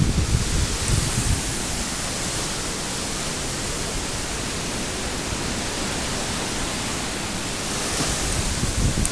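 Strong wind rushing steadily, with gusts buffeting the microphone as low rumbles at the start and again near the end.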